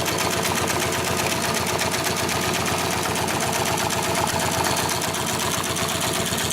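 HIGHTEX 768-273 triple feed post bed twin-needle upholstery sewing machine running steadily at speed, its needle bar stitching in a rapid, even rhythm over a constant motor hum.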